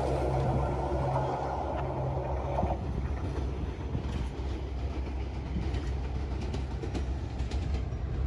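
Passenger train receding down the track after passing, its rumble and wheel clatter on the rails fading. A low steady hum under it partly drops away about three seconds in, leaving faint scattered clicks from the rails.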